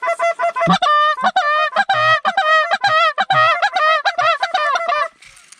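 A goose call blown in a fast string of short honks and clucks, calling to geese that are out of range. The notes run loud and rapid, several a second, and stop about five seconds in.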